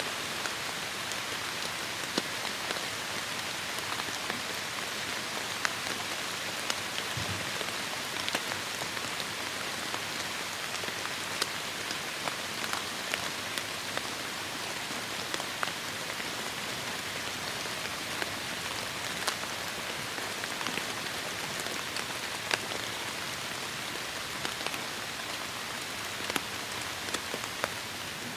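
Steady heavy rain falling, an even hiss with many sharp individual drop splats ticking through it.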